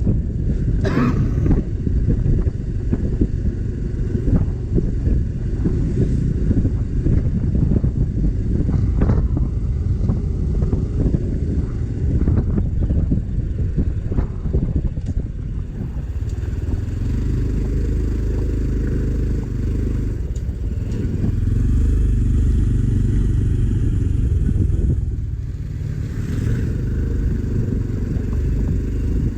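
Motorcycle running while being ridden, a dense low rumble of engine and road noise with a few knocks in the first half, settling into a steadier hum about halfway through.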